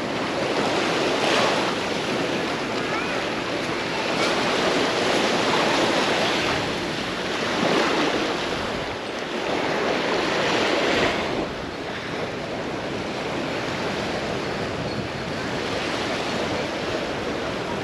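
Small sea waves breaking and washing up the beach, swelling several times over the first eleven seconds or so, then settling into a steadier, quieter wash.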